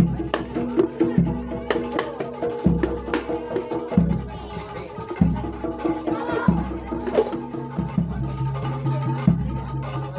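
Jaranan Dor traditional ensemble music: a deep jidor bass drum beating about every second and a half under steady pitched instrument tones and sharp, quick percussion strokes.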